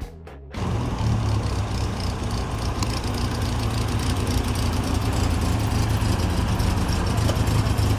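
Music cuts off about half a second in, giving way to a car engine idling steadily with outdoor background noise.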